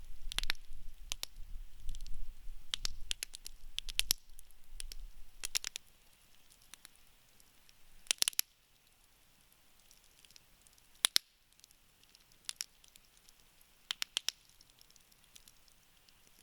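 Wood campfire crackling: irregular sharp pops and snaps from the burning wood, with a low rumble under them for the first five seconds or so. After that only occasional single pops and small clusters of snaps remain.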